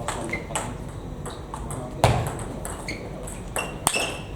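Table tennis rally: the celluloid/plastic ball clicking sharply off bats and table at about two hits a second, with a harder smash about halfway through and another near the end, and a few short high squeaks between hits.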